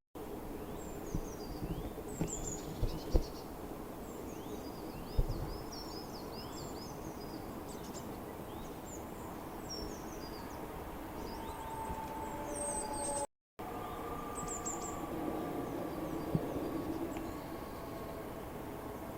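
Small songbirds chirping and twittering in rapid, high, short calls, busiest before a cut about 13 seconds in and sparse after it, over a steady outdoor background hiss. A few soft knocks sound in the first five seconds, and a faint steady drone is heard in the second half.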